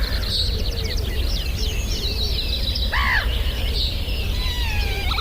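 Many birds chirping and twittering, with one short harsh call about three seconds in, over a steady low rumble.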